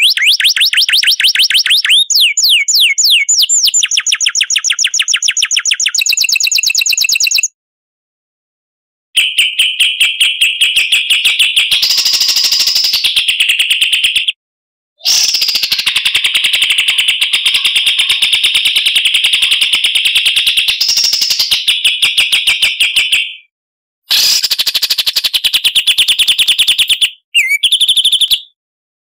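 Songbird tutor recording: loud, fast trills of high, rapidly repeated notes, some sweeping upward, in several bursts of a few seconds each that cut off abruptly into silence between them.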